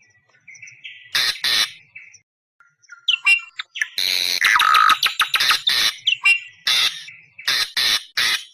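Awar-awar bird lure call: thin whistled notes and two short harsh screeches, then from about four seconds in a loud run of harsh, rapidly repeated screeching calls.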